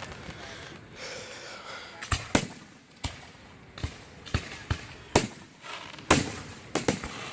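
Fireworks bursting overhead: about ten sharp bangs at uneven intervals, the loudest a little past five and six seconds in.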